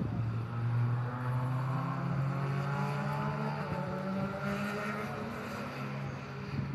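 A car engine running at a steady note, loudest about a second in and easing slightly near the end.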